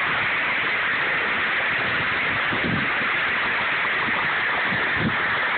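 Large hailstones pelting down heavily in a dense, steady rush of noise, with no letup.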